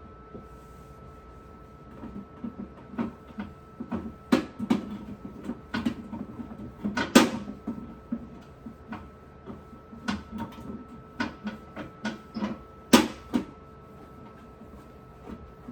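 Scattered knocks and clicks of items being handled and set down while a refrigerator is cleaned, with two louder knocks about seven and thirteen seconds in. A faint steady hum sits underneath.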